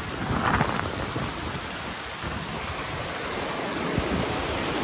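Steady rushing of flowing glacial meltwater, a dense noise with irregular low-end rumble throughout.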